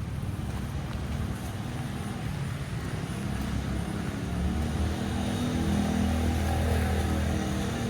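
A motor vehicle's engine running and drawing closer, its hum growing louder from about halfway through and loudest near the end.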